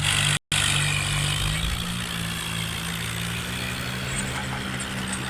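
John Deere 5050 tractor's diesel engine running steadily, slightly louder in the first second, with a brief break in the sound about half a second in.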